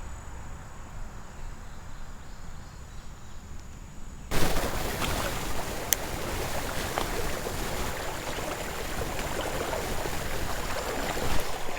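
Shallow creek water rushing and splashing, with scattered small clicks and knocks. It starts suddenly about four seconds in, after a low, quiet rumble.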